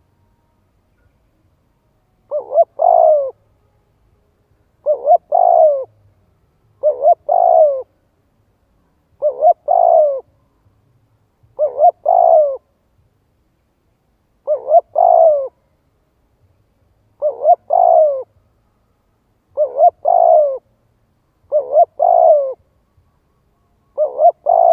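Spotted dove giving its repeated coo call, about ten phrases a couple of seconds apart. Each phrase is two short notes followed by a longer note that falls in pitch.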